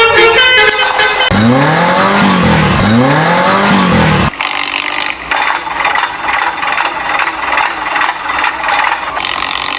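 Vehicle sound effects. A horn blast ends about a second in, then a siren-like wail rises and falls twice and cuts off sharply. A rapid mechanical rattling, like a ratchet, follows.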